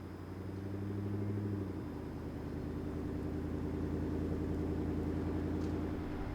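Pickup truck engine running under way, a steady low drone whose note changes about two seconds in.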